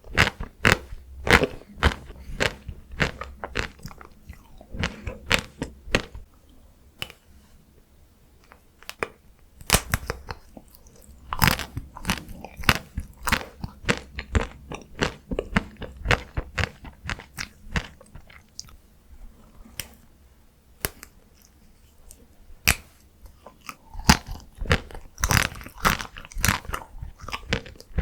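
Close-miked eating of chocolate and matcha Tico ice cream: sharp cracks of biting and wet chewing in bursts, easing off twice into quieter chewing before picking up again.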